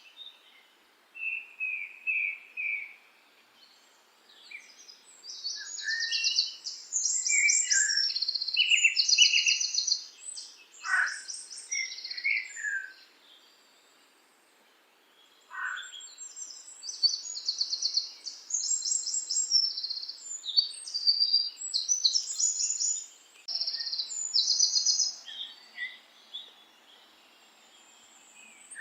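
Several songbirds singing: rapid high chirping trills and short whistled phrases, a few of them sliding down in pitch, coming in bursts with a brief lull about halfway through.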